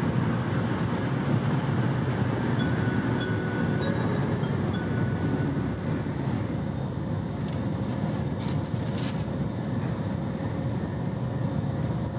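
Steady running noise inside an N700 series Shinkansen passenger car at speed: an even rumble, strongest in the low range, with a few faint brief whistles above it.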